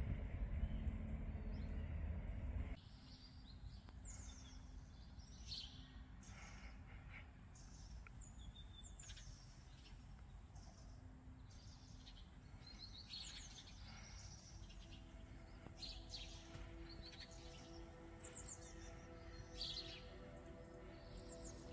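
Small birds chirping, many short separate calls over a quiet background. A louder low rumble cuts off suddenly about three seconds in, and faint steady tones come in during the second half.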